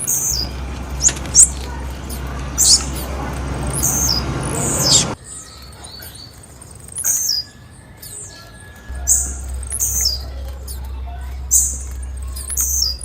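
Female blue-black grassquit (tiziu) calling: short, high, sharp chirps that drop in pitch, repeated irregularly about once a second. For the first five seconds they sit over a steady hiss and low hum that cut off suddenly.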